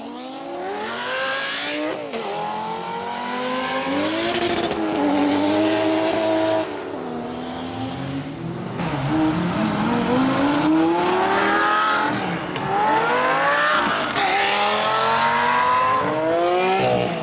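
Porsche Carrera GT's V10 engine pulling away hard. Its pitch climbs and then drops back several times as it shifts up through the gears, and it grows louder.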